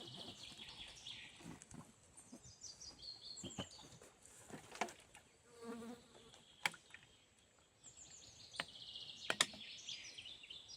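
Swampy forest ambience: small birds chirping and trilling high up, with insects buzzing. A few sharp snaps or clicks stand out.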